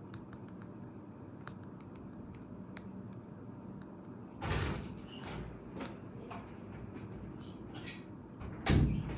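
Small objects being handled on a table: a few light clicks, then two louder sliding, scraping bursts, one midway and a stronger one near the end.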